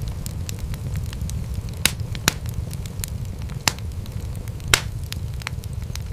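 Wood fire crackling in a fireplace: a steady low rumble of flames under many small snaps, with four louder pops in the middle of the stretch.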